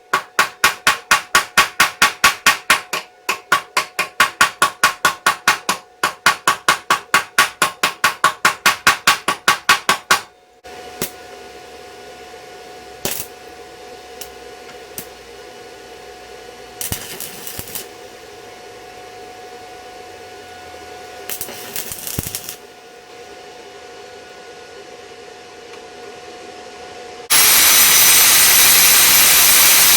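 Rapid, evenly spaced metal tapping, about four strokes a second, with short breaks, then a few separate knocks. Near the end, a stick-welding arc on a 7018 electrode strikes suddenly and runs as a loud, steady crackling hiss.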